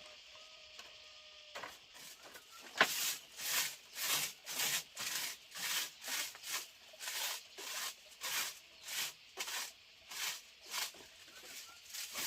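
Rhythmic scraping strokes, about two a second, starting about a second and a half in, with one sharper knock just before the run settles.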